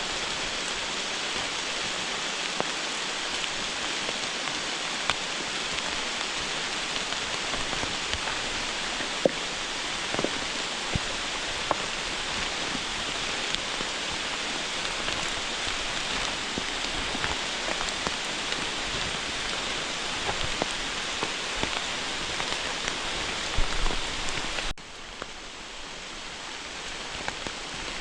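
Steady rain falling, with scattered louder drops ticking through it. About 25 seconds in it suddenly drops quieter, then slowly builds again.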